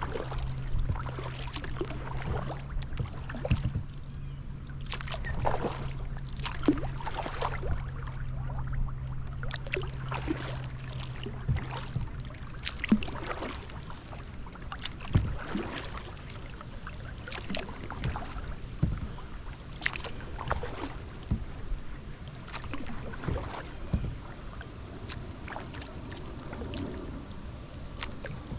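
Kayak paddle strokes: the blades dip and splash in shallow water, with irregular splashes and drips. A low steady hum runs underneath and stops about halfway through.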